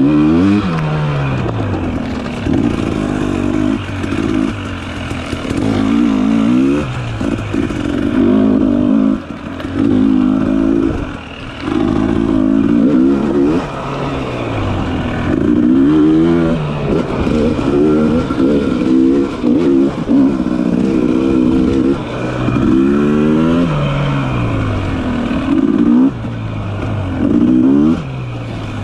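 Dirt bike engine under hard riding, revving up and easing off over and over every second or two as the rider works the throttle along a twisting trail.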